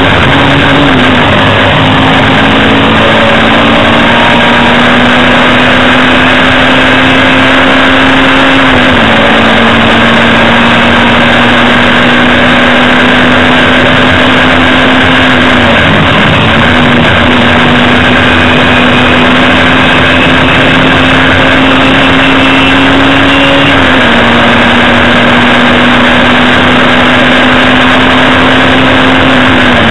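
Hillman Imp race car's rear-mounted four-cylinder engine pulling hard, heard very loud from inside the cabin over heavy road and wind noise. Its note holds steady and about five times drops briefly and picks up again, as it lifts off for corners and changes gear.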